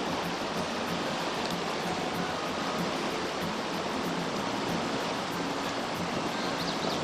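Steady rushing of a shallow mountain river flowing over rocks, an even wash of water noise that holds at one level throughout.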